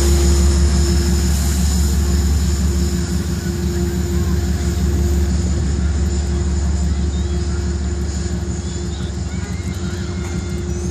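Low, steady rumble of a train's diesel engine at a grade crossing, slowly growing quieter as the train moves off.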